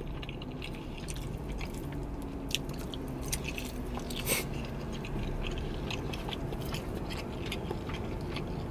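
Close-up mouth sounds of a person biting and chewing breaded chicken parmesan, with a few short clicks, over a low steady hum.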